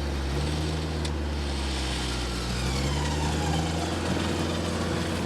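An off-road 4x4's engine running steadily with a winch pulling under load, part of its sound sliding in pitch as the load changes, while the vehicle stuck in deep mud is winched out.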